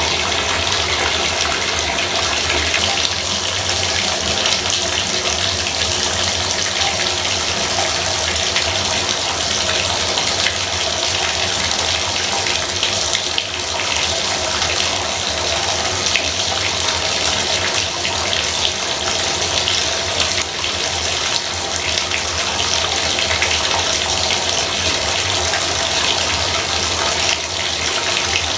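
Bathtub faucet running steadily, water splashing into the tub in an even, unbroken rush.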